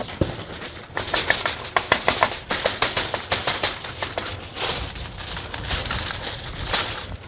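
A seasoning shaker being shaken over ribs: dense, irregular rattling clicks as the dry barbecue rub is shaken out, starting about a second in and going on almost to the end.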